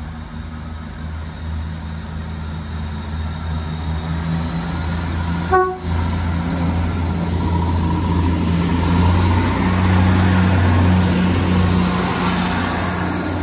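Northern Class 158 diesel multiple unit running through a station, its diesel engines droning steadily. The horn sounds one short toot about five and a half seconds in, and wheel and rail noise builds as the train passes close by.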